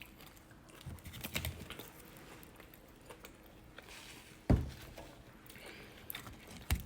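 Small clicks and taps from handling a can of Modelo beer, with two sharp knocks, one about four and a half seconds in and one near the end.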